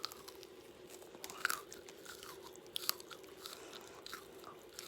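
Crunchy bites and chewing of a Korean corn dog with a fried ramen-noodle coating, a scatter of short crackles with the sharpest crunch about a second and a half in.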